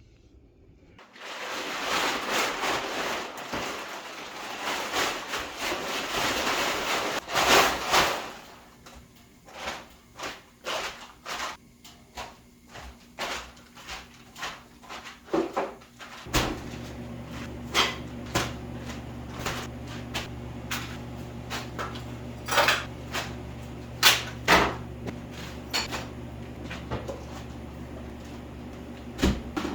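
Hard items knocking and clacking as they are handled and set down during cleaning, after several seconds of rough rubbing noise. A steady low hum comes in about halfway.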